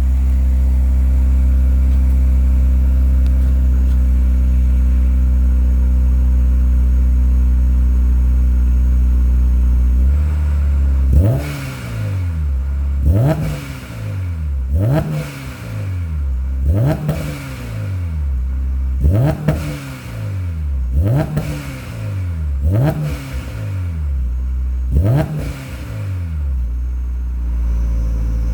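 Supercharged Honda S2000 four-cylinder idling through a newly fitted HKS single 3-inch exhaust with a test pipe. About ten seconds in, the throttle is blipped eight times, about every two seconds, each rev rising sharply and falling back. Near the end it settles back to idle.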